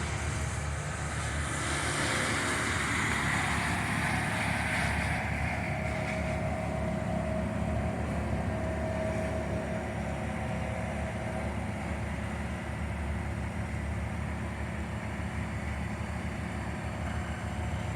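An engine running steadily with a low hum. A hiss swells and fades over the first few seconds.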